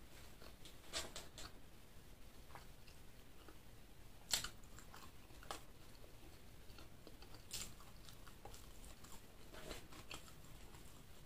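A person chewing and biting food close to the microphone, with scattered crisp clicks and crunches of a meal of chicken liver and gizzard with rice; the sharpest crunch comes about four seconds in.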